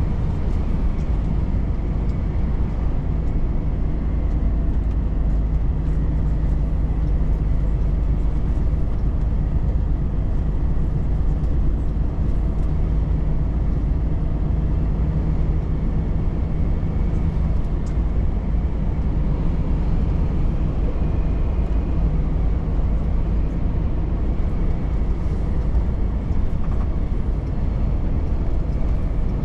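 Volvo FH truck driving at a steady speed: the engine running evenly under a constant low rumble of road noise.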